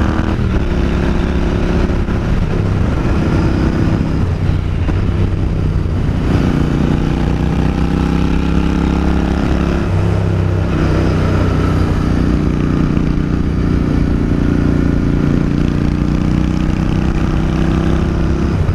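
Royal Enfield Continental GT 650's parallel-twin engine running through its exhaust, the revs shifting up and down a few times.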